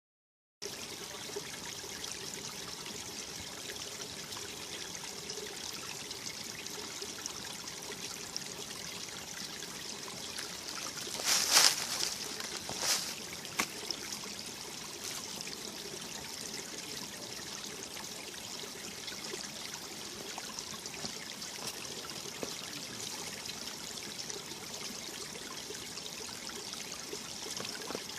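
Mountain valley stream running over rocks, a steady trickling rush of water, with a few brief louder bursts about eleven to thirteen seconds in.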